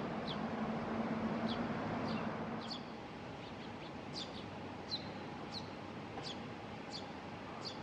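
Young Eurasian tree sparrow chirping repeatedly: short, high, falling chirps roughly every half second to second over a steady background hiss.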